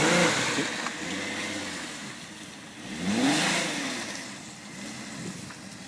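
Volkswagen 4Motion car's engine revving in two surges, the pitch rising and falling each time, once at the start and again about three seconds in, while it drives the dirt trail.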